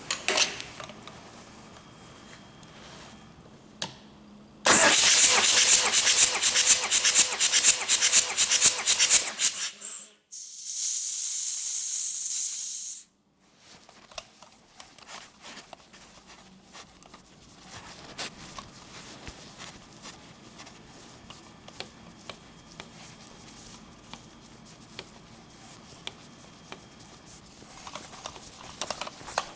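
Hyundai D4BH four-cylinder diesel cranked on the starter for about five seconds, a fast rhythmic churning, for a compression test. This is followed by about three seconds of steady hiss, typical of the compression gauge being bled down after its reading. Light clicks and handling noises come before and after.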